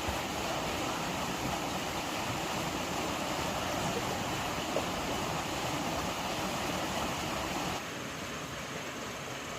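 Steady rushing noise with no clear pitch. It steps down abruptly to a quieter hiss about eight seconds in.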